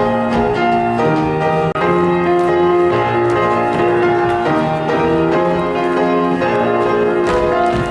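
Instrumental music led by piano, sustained notes changing chord every half second or so: an accompaniment playing between spoken lines and the next sung number.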